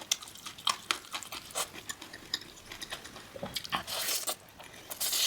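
Close-miked eating sounds: a string of short crunches and clicks of food and utensils, with louder, longer crunching about four seconds in and again near the end.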